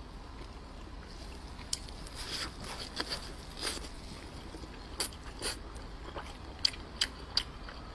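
Close-miked chewing of a soft shaomai with a sticky filling: wet mouth sounds and lip smacks, with several sharper clicks in the second half.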